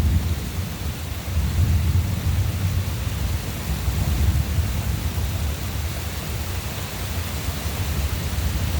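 Thunder rumbling low and long, swelling and easing, over the steady hiss of rain.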